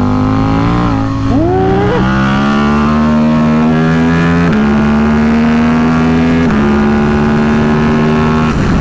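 KTM RC8C's V-twin engine under hard acceleration on track, its pitch climbing in each gear with three quick upshifts, the last past six seconds; near the end the throttle closes and the note breaks up. Wind rushes over the rider's helmet throughout.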